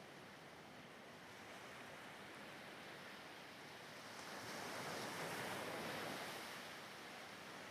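Ocean surf: a soft rushing wash of a wave that swells about four seconds in and recedes near the end.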